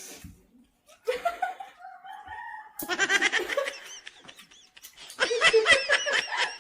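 Chicken clucking and cackling in quick repeated high-pitched notes, in two loud runs, the second near the end.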